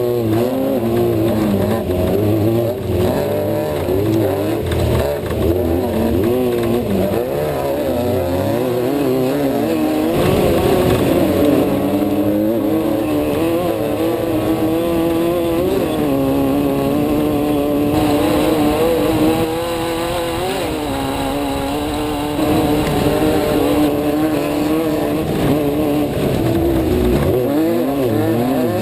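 Off-road race car's engine heard from inside the car, running hard with its pitch rising and falling constantly as the throttle is worked, holding steadier for a few seconds past the middle.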